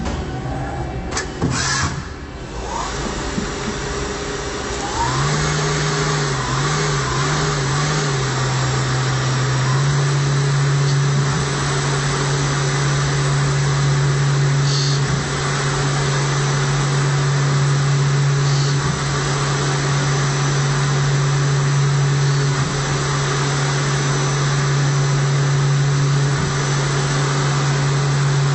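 CNC machine running with a steady motor hum that steps up and down in pitch for several seconds before settling on one pitch, with a brief clatter near the start.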